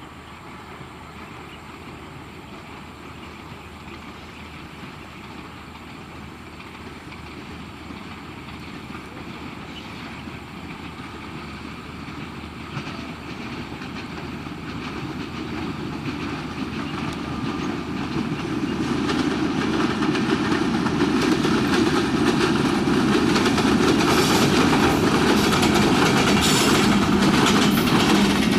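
Diesel-hauled passenger train approaching at speed, its running noise growing steadily louder. Over the last few seconds the coaches roll past close by, their wheels clacking over the rail joints.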